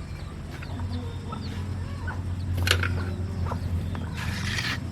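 Chickens clucking over a steady low hum, with a few sharp knocks and a brief hiss near the end.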